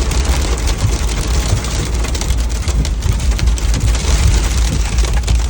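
Hail and rain striking the roof of a car, heard from inside the cabin as a dense, steady stream of small ticks over the car's constant low rumble.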